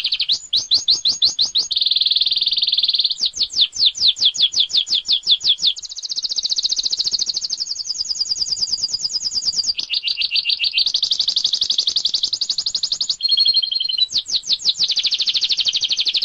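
Domestic canary singing a continuous song: phrase after phrase of rapid repeated notes, switching every second or two between quick runs of falling notes and tight, buzzy rolls.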